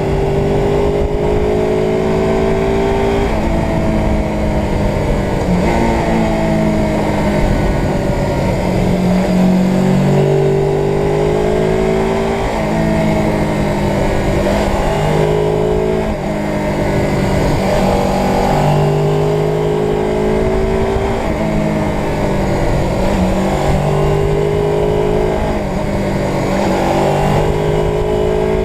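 Suzuki GS500's air-cooled parallel-twin engine under way, its pitch climbing as it accelerates and dropping back at each gear change, again and again. A steady low rumble of wind on the microphone lies underneath.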